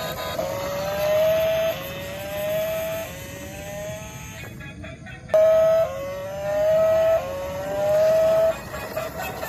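Electronic toy-vehicle sound effect: a rising engine-like tone with overtones, repeated about once a second, with a short break near the middle.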